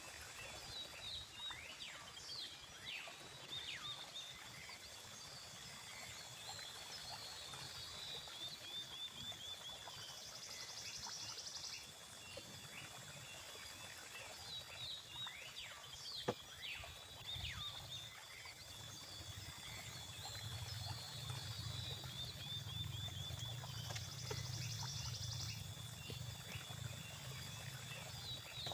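Night ambience of frogs and insects calling: a steady high insect drone, repeated short falling chirps, and two spells of fast rattling trill. A low rumble joins in about two-thirds of the way through.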